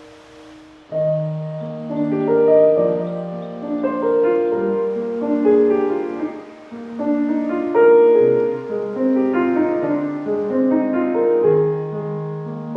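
Background piano music: a gentle, flowing run of overlapping notes that comes in about a second after a softer held tone.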